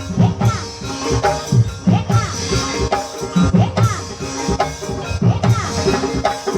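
Ebeg (kuda kepang) dance accompaniment: drums beating a steady, repeating pattern of about two strong strokes a second under sustained pitched percussion notes.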